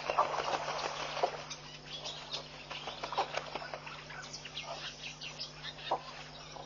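Birds calling, many short chirps and calls overlapping throughout, over a steady low electrical hum.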